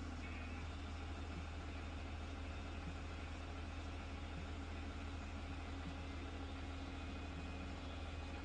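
Steady, unchanging low hum of an idling engine.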